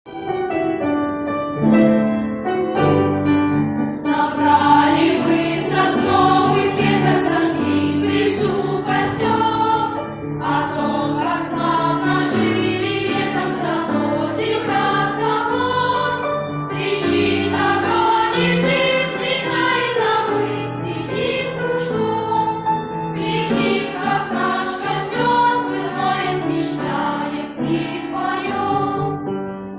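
A choir singing a song, led in by a short opening of about four seconds.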